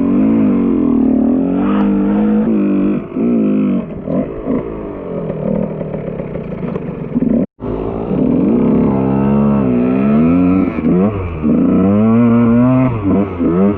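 KTM EXC 125 two-stroke enduro motorcycle engine revving up and down over and over as the bike is ridden. The sound breaks off for an instant about halfway through.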